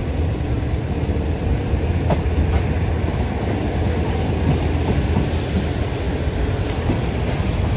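Passenger train running along the track, heard from inside a carriage by the window: a steady rumble of wheels on rail, with a couple of faint clicks about two seconds in.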